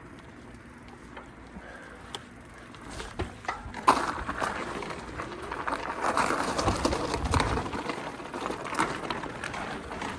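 Riding noise from an electric bike on the move: wind on the microphone and tyres on the road, with scattered clicks and knocks. It grows louder and rougher from about four seconds in.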